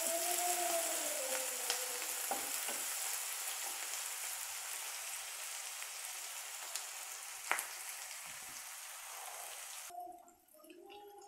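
Onions and ginger-garlic paste sizzling in hot oil in a kadhai, with a few sharp knocks of a wooden spatula against the pan as they are stirred. The sizzle slowly fades and drops away suddenly near the end.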